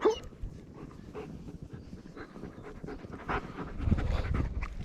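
A dog panting close by in quick, short breaths, with a low rumble about four seconds in.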